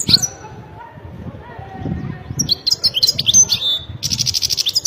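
European goldfinch singing: a quick burst of twittering chirps about halfway through, then a fast, buzzy trill near the end, over a low background murmur.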